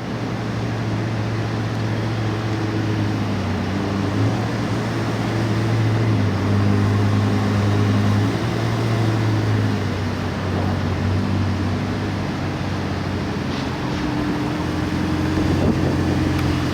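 McLaren 765LT's 4-litre twin-turbocharged V8 idling: a steady low hum whose pitch wavers slightly every few seconds.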